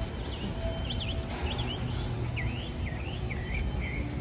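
A small bird chirping a quick series of short notes that swoop up and down, about two or three a second, over a steady low rumble of city street traffic.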